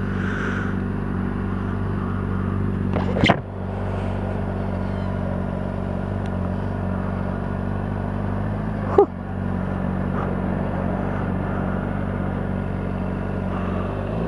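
Sport motorcycle engine running steadily, with two sharp clicks about 3 seconds and 9 seconds in.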